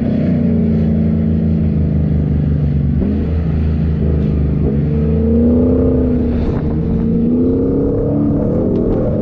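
Four-wheel-drive vehicle's engine running under load, its pitch rising and falling with the throttle. The pitch drops sharply about three seconds in and then climbs again.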